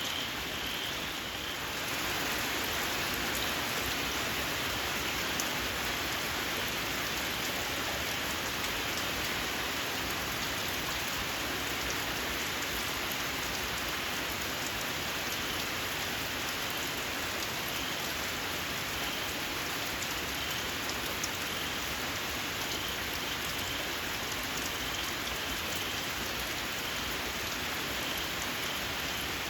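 Steady rain falling, a little heavier from about two seconds in, with faint short high chirps of small frogs calling now and then.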